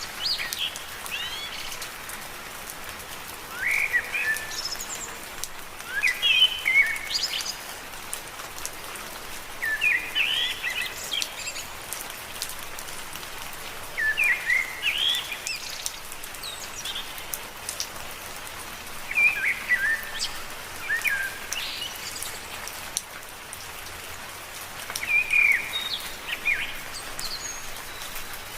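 Steady rain falling, with a bird singing short chirping phrases every few seconds over it.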